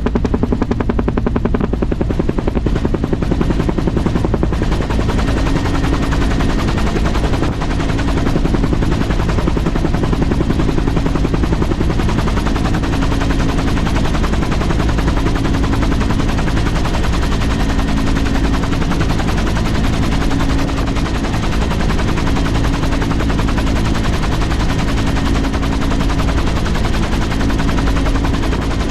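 Helicopter running close by, its rotor making a rapid, even chopping that stays steady and loud throughout.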